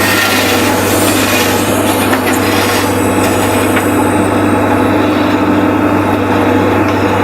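JCB 3DX backhoe loader's diesel engine running steadily under digging load. A harsh scraping sound over the first three seconds eases off after that.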